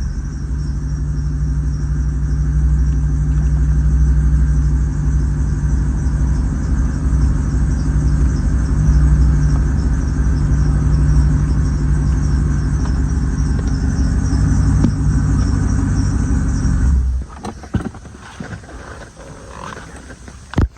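2007 Corvette's 6.0 L LS2 V8 idling steadily, then shut off about 17 seconds in, leaving a few light clicks.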